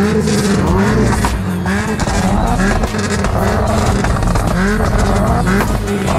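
Car engine running and being revved, with short repeated rises in pitch.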